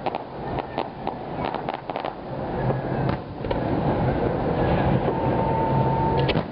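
Fireworks display: a quick run of sharp bangs and crackles from bursting aerial shells through the first few seconds, then a steadier rumble of the show with a low steady hum underneath.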